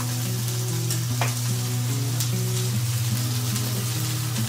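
Spices and onion sizzling steadily in hot mustard oil in a pan, with a spatula scraping against the pan a couple of times.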